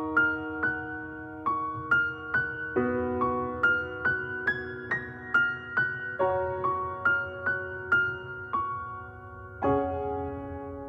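Background music: a soft piano playing a slow melody over held chords, a new note about every half second.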